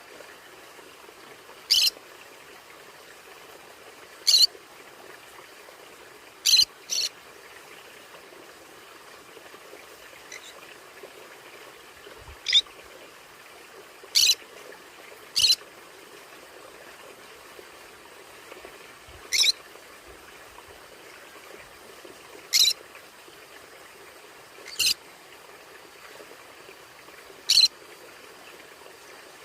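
Conure parrot giving short, sharp squawking calls, about a dozen spaced a few seconds apart, two of them in quick pairs, over a steady background hiss.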